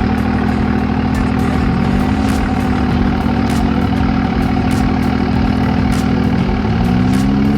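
Truck engine running at a steady idle, revving up and easing back down twice, briefly about two seconds in and for longer near the end.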